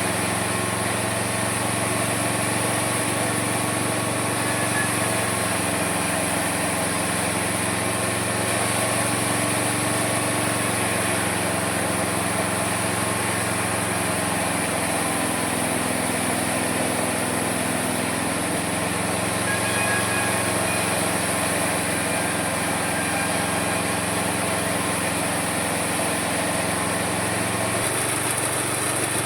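Homemade mini sawmill running steadily under its small engine, with the pitch shifting slightly now and then.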